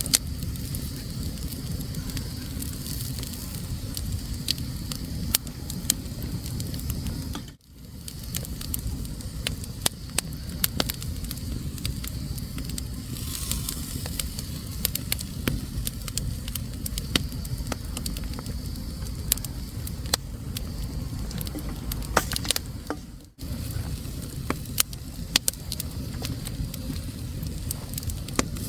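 Wood fire burning in a fireplace: frequent sharp crackles and pops over a steady low rumble. The sound drops out briefly twice, once about a quarter of the way in and again about four-fifths of the way through.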